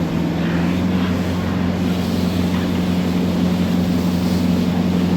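Four Winns motorboat's engine running steadily, with the rush of water and wind.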